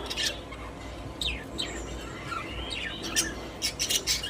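Budgerigars chirping: a run of short, high chirps that grows busier near the end.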